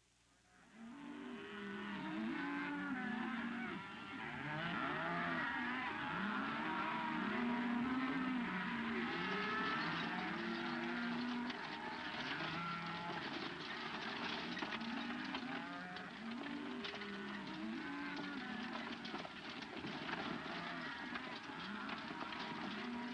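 A herd of cattle lowing, many animals mooing over one another, over a continuous noisy bed with many small clicks. It starts about a second in.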